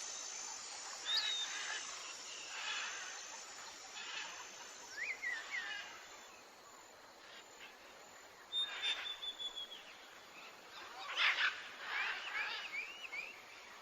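Forest birdsong: scattered short chirps and whistles from several birds over a hiss of outdoor background, with a quick run of rising notes near the end.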